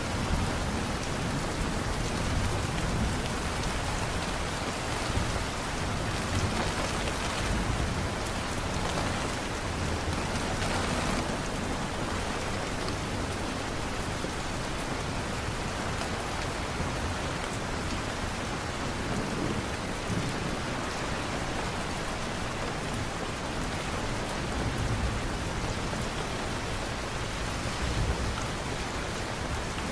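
Steady rain falling, with low rumbles of thunder swelling at times.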